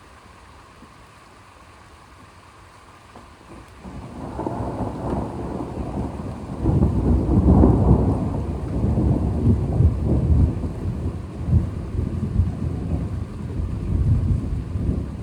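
A long roll of thunder: it starts about four seconds in, swells to its loudest a few seconds later and keeps rumbling unevenly to the end.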